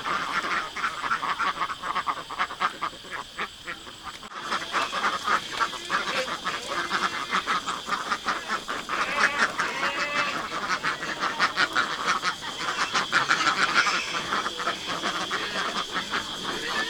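A flock of ducks quacking, many calls overlapping in a continuous chatter.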